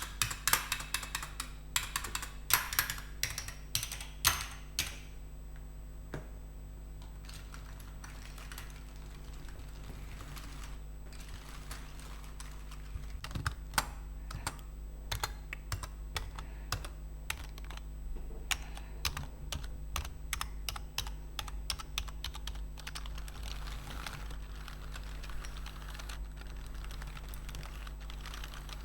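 Computer keyboard keys clacking in quick runs of typing or tapping, densest and loudest in the first five seconds, sparser for a while, then steady again from about halfway through, over a faint constant low hum.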